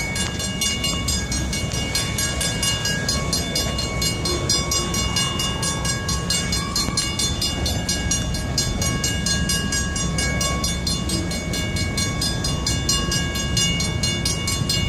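Slow-moving train passing, a steady heavy rumble with several held high tones and a fast, even ticking above it.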